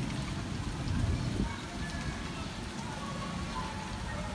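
Monsoon rain falling steadily, a continuous hiss of rain with a low rumble underneath.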